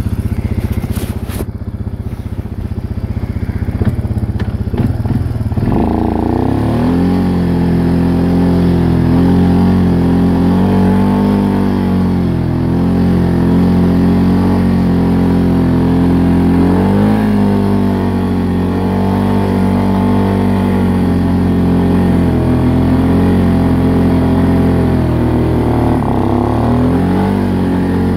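ATV (quad) engine running at low revs, then revving up about six seconds in and pulling hard and steadily under heavy load, its pitch wavering a little, as the quad climbs a hill through deep snow.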